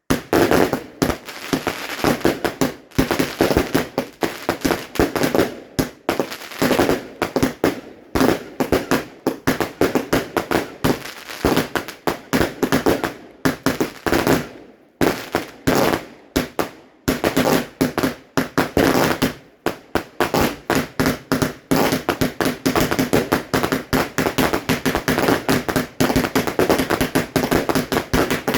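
Fireworks going off in rapid succession: a long, dense run of bangs and crackles, with two short lulls about halfway through.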